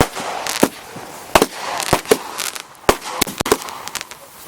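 Consumer multi-shot firework cakes firing in succession: about eight sharp bangs at uneven spacing, half a second to a second apart, with crackling and hissing between the reports.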